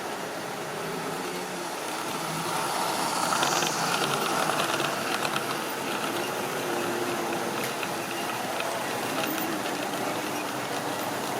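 Model railway train running on the track: a steady motor hum and wheel rumble with rattling clicks from the wheels over the rail. It grows louder between about two and five seconds in, then runs on steadily.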